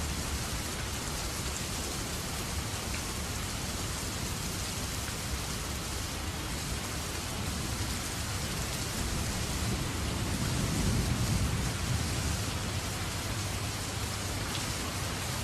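Steady rain falling, an even hiss of many drops, with a low rumble swelling briefly about ten seconds in.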